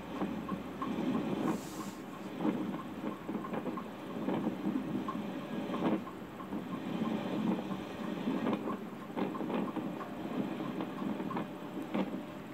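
Passenger train coach running along the line, heard from its open window: a steady rumble of wheels on the rails with frequent irregular clicks and knocks.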